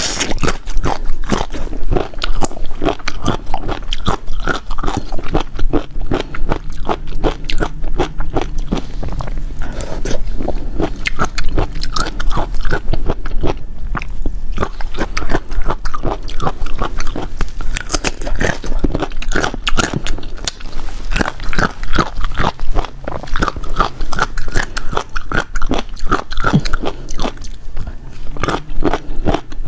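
Close-miked chewing and crunching of food, with many irregular crunches and bites.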